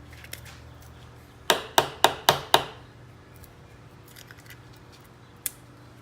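Five sharp clicks of small hard objects in quick succession, about four a second, then a single click near the end, over a low steady hum.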